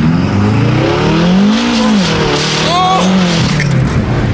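Tuned twin-turbo V8 of a BMW M5 pulling hard at full throttle, its revs climbing steadily, then dropping back as it shifts up about two seconds in and climbing again. A brief high squeal cuts in near the three-second mark.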